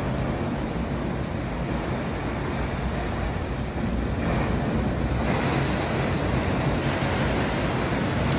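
Heavy ocean surf crashing and rushing, with wind noise on the microphone; the wash grows louder and hissier about five seconds in.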